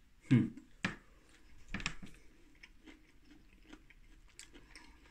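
A person chewing a mouthful of oven-baked battered dill pickle: a few louder mouth sounds in the first two seconds, then quiet, soft chewing with small wet clicks. The batter is soft rather than crunchy.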